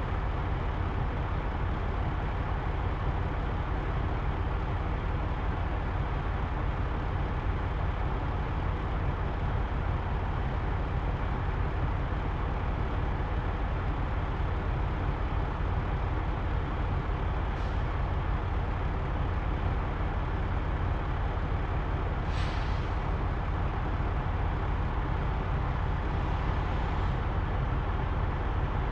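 Semi-truck diesel engine idling with a steady low rumble, with two short air hisses in the second half, the second louder.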